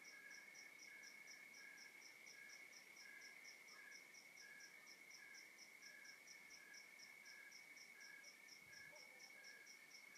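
Crickets and other night insects chorusing faintly. A continuous high trill runs under a slower chirp that pulses about once or twice a second and a fast, higher chirp repeating several times a second.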